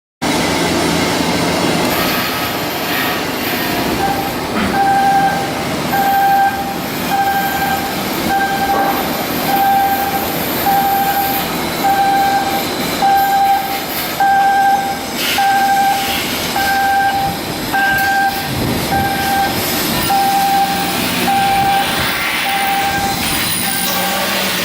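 Shipyard work noise with a warning beeper: from a few seconds in, a steady electronic beep repeats about once a second over a busy background of metal work.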